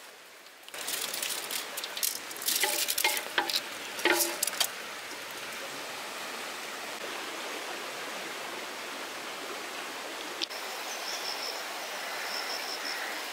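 Steady hiss of rain falling, with a run of clattering knocks in the first few seconds. A high, pulsing chirp comes in near the end.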